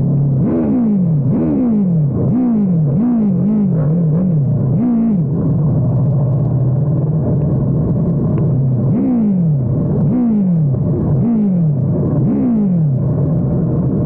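Motorcycle engine revved in a run of quick throttle blips, each rise in pitch falling straight back. It holds a steadier note for a few seconds around the middle, then blips again.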